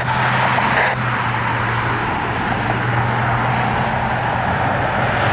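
Jet airliner engines running: a steady, loud rushing roar with a low hum underneath.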